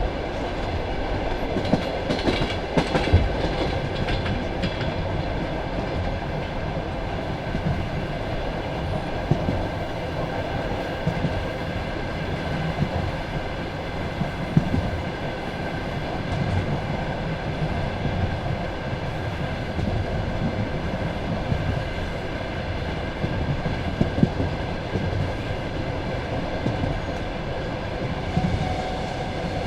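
Passenger railway carriage running along the line: a steady rumble of wheels on rail with irregular clacks over the rail joints, and a cluster of sharper knocks about two to three seconds in.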